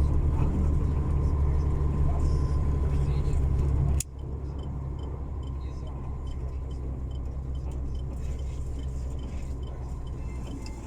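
Truck engine droning steadily, heard inside the cab. About four seconds in it cuts sharply to a quieter hum with a faint regular ticking about twice a second.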